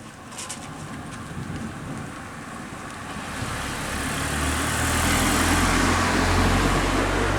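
Thunder rumbling, a low rolling rumble that swells from about three seconds in and stays loud to the end.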